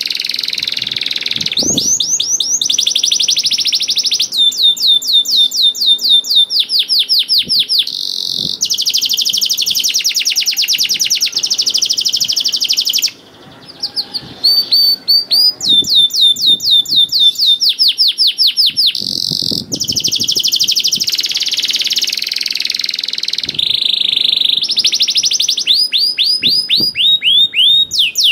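Domestic canary singing a long, loud song of fast trills and rapid runs of repeated falling notes, with one short break a little before halfway.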